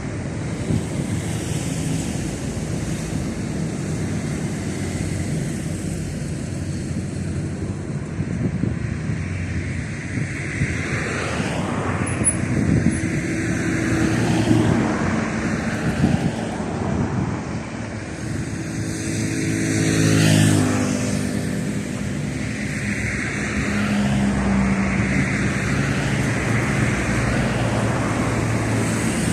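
Boeing 737-800 airliner's CFM56 jet engines running steadily, with a brief glide in engine pitch about two-thirds through.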